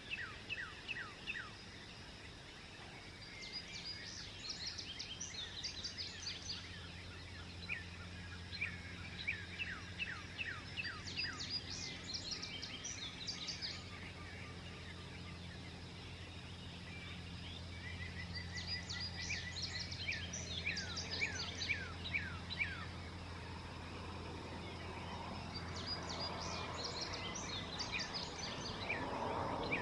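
Songbirds singing at dawn: bursts of quick, high, falling notes come every several seconds over a steady low hum. A soft rushing noise builds near the end.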